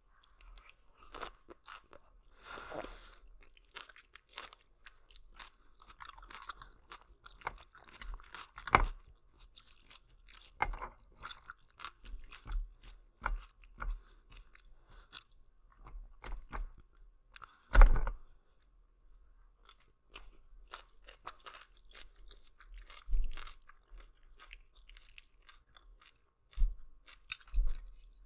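Close-miked chewing of spicy Italian noodles, with irregular sharp mouth clicks throughout and the loudest one about eighteen seconds in.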